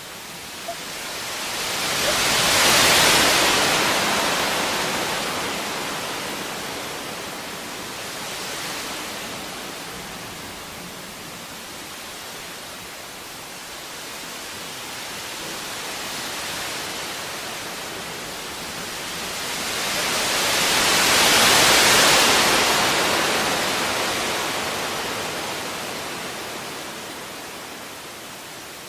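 Small waves breaking and washing up a sandy beach: a rushing wash that slowly swells and fades, loudest about three seconds in and again about twenty-two seconds in, with smaller swells between.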